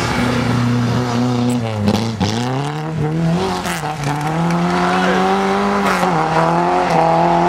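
Car engine revving hard as a Lada is drifted through snow. The revs drop sharply about two seconds in, climb back and hold high under power, then dip briefly again about six seconds in.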